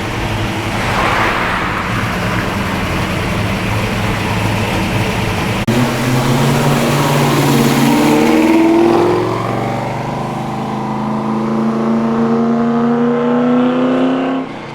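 A car engine running loudly, then revving up about six seconds in and accelerating, its pitch climbing steadily before the sound drops away abruptly near the end.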